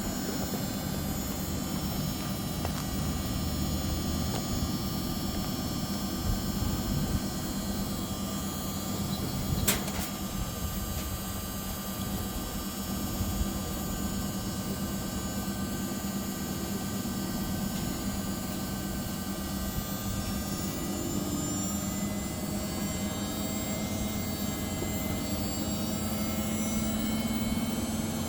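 Samsung ecobubble washing machine spinning: a steady motor hum and whine with a single sharp click about ten seconds in.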